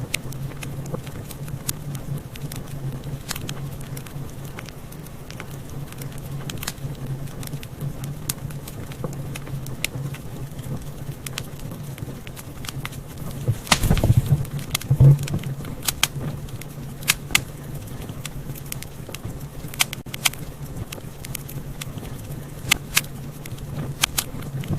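Wood fire crackling in a fireplace: scattered sharp pops and snaps over a steady low hum, with a burst of louder pops just past halfway.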